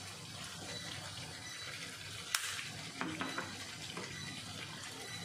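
Mutton and tomatoes frying with a steady sizzle in a nonstick wok, with one sharp click about two seconds in and a few light knocks a little later.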